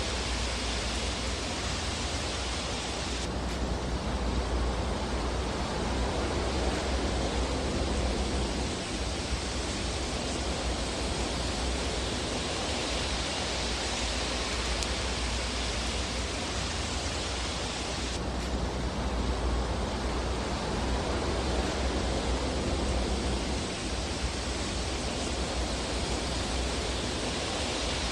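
Steady, even rushing hiss of a fireplace fire, heavy in the deep bass, with no distinct crackles or pops standing out. The tone of the hiss shifts slightly a few seconds in and again past halfway.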